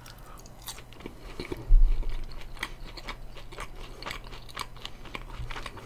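Biting into and chewing crunchy fried chicken coated in yangnyeom sauce, with many small crackles of the crust. There is a dull low thump about two seconds in.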